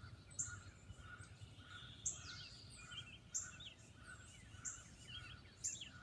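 Faint birdsong: assorted short chirps, with one sharp, high call repeating about every second or so.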